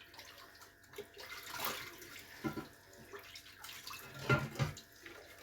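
Soft, intermittent splashing and swishing of water, with small handling noises between.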